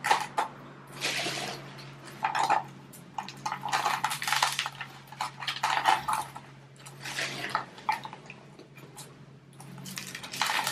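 Gravelly potting mix being handled and poured into a plant pot, its grit rattling and scraping in irregular bursts.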